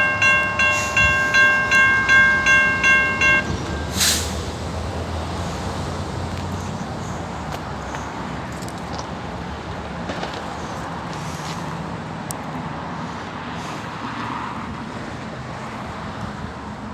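Railroad crossing warning bell ringing in quick, even strokes about twice a second, stopping about three and a half seconds in. It gives way to the steady rumble and hiss of a passenger train rolling into the station.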